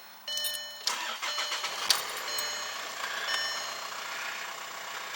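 Volkswagen Jetta's engine started with the key: it cranks and catches about a third of a second in, then idles steadily, with a few sharp clicks in the first two seconds.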